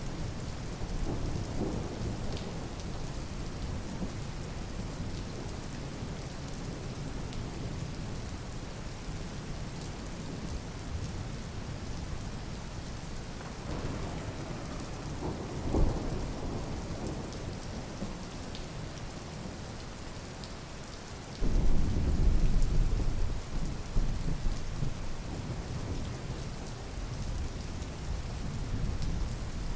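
Steady rain hiss, with a brief low rumble just past halfway. Then a sudden, louder roll of thunder breaks in about two-thirds of the way through and rumbles for several seconds.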